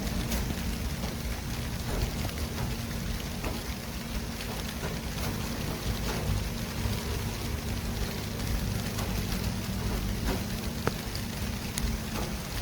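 City traffic ambience: a steady wash of traffic noise with a heavy low rumble, a faint steady hum and a few faint scattered clicks.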